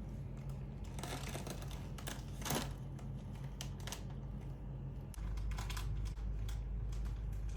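Scattered light clicks and rustles over a low steady hum, with the loudest click about two and a half seconds in; the hum gets louder about five seconds in.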